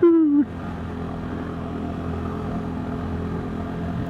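KTM 390 Duke's single-cylinder engine running at a steady pitch, the motorcycle cruising at a constant speed.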